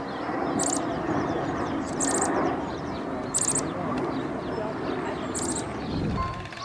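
Small birds chirping: four short, very high chirps, each a quick run of a few notes, about one to two seconds apart, over a dense murmur of lower sound.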